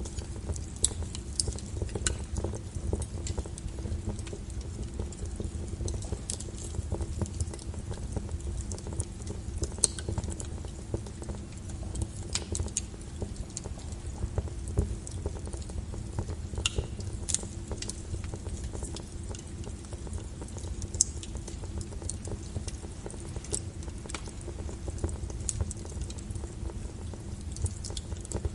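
Log fire burning in a fireplace: wood crackling with frequent, irregular sharp pops over a low steady rumble.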